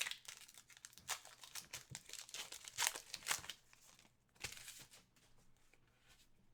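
Crinkling and rustling of a trading-card pack wrapper being handled and torn open, in a quick run of short crackles that thins out after about four seconds, with one more crackle shortly after.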